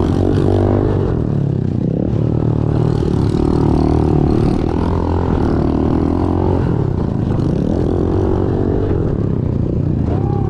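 Small four-stroke pit bike engine running loud and steady, its revs rising and falling throughout.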